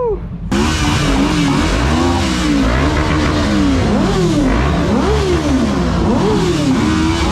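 Motorcycle engine revving hard, its pitch climbing and dropping again and again about once a second, after a brief falling tone at the very start.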